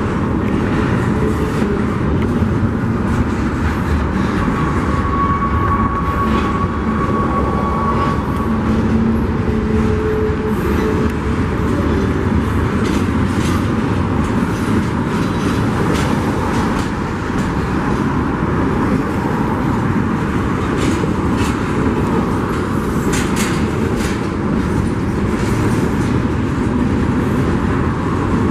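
Union Pacific freight train's cars rolling past: a steady rumble with the clatter of wheels over the rails, and a brief thin squeal about five seconds in.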